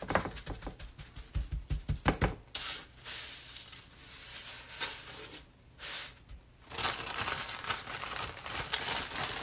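Plastic bag crinkling and rustling as seasoned breadcrumb coating is pressed onto chicken pieces, with a run of soft pats in the first two seconds.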